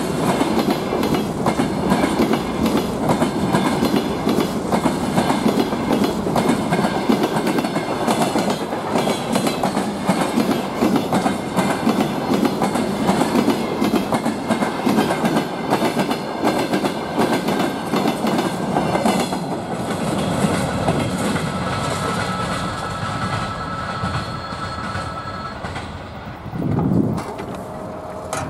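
Freight train wagons rolling past close by, wheels clattering over the rail joints in a dense, steady rattle. A thin, steady high squeal runs through the latter part, and the rattle thins out and fades a couple of seconds before the end.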